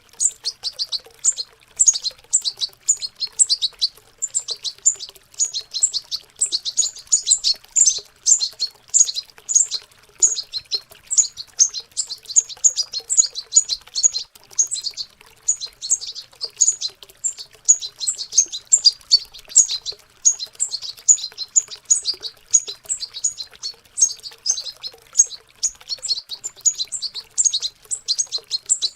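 Young European goldfinches in juvenile subsong (babbling song practice): a continuous stream of rapid, high twittering chirps.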